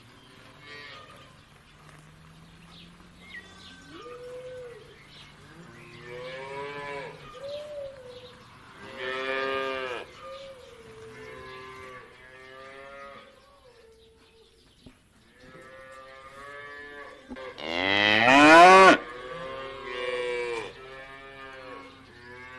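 Black-and-white cattle mooing again and again, a string of short and longer moos. The loudest, about eighteen seconds in, is a long moo that rises in pitch.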